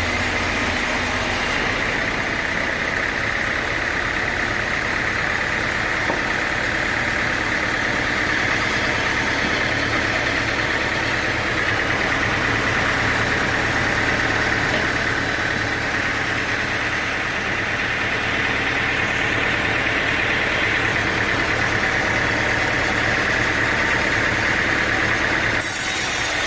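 Sawmill machinery running steadily: an even engine drone with a constant high whine.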